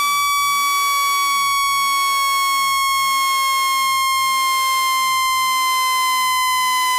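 Synthesized speaker-cleaning tone for pushing water out of a phone's speaker: a loud, continuous electronic tone with many overtones, gliding slowly down in pitch.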